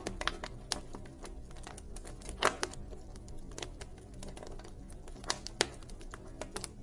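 Wood fire crackling: irregular small snaps with louder pops about two and a half seconds in and twice more near five and a half seconds, over a low steady rumble.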